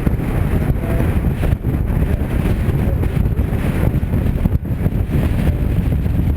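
Strong wind buffeting the camera's microphone: a loud, low, gusting rumble with no let-up.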